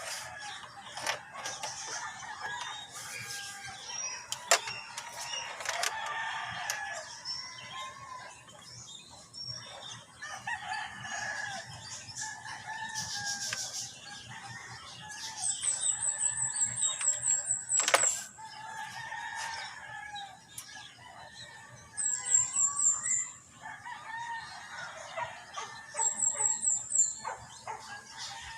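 Chickens clucking and crowing in the background, with a few sharp clicks and three short bursts of rapid, high-pitched pips in the second half.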